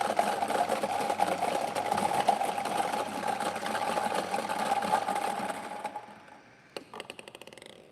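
Electric lottery ball machine running, its motor or blower whirring with balls rattling inside, winding down about six seconds in, followed by a few light clicks.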